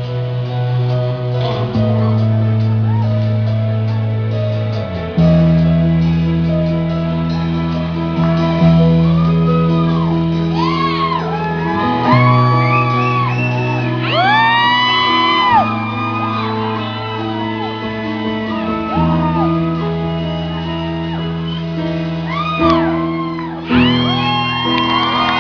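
Live band playing sustained bass and keyboard chords that change every few seconds, with whoops and shouts from the audience rising and falling over the music.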